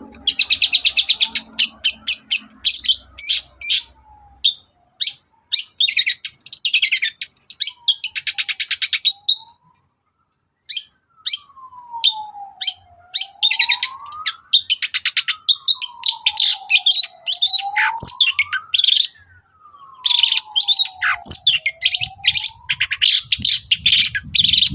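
Long-tailed shrike (cendet) singing a fast run of high chattering notes, broken by two brief pauses. Through the middle and later part, slow whistles fall and rise again underneath the chatter.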